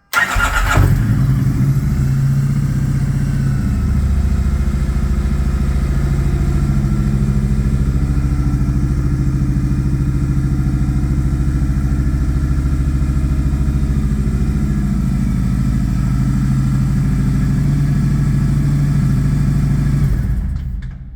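Kawasaki Vaquero VN1700's V-twin engine cranked over by the electric starter and catching at once, then idling steadily, and stopping near the end. It is the first start on its freshly reflashed ECU, and it runs fine.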